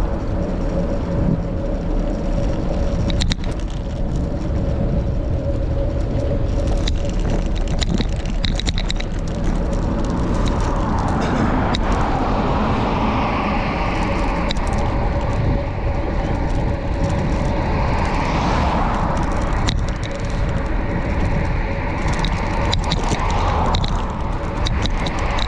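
Steady wind rush over the microphone and road noise from a bicycle ride, with scattered light clicks.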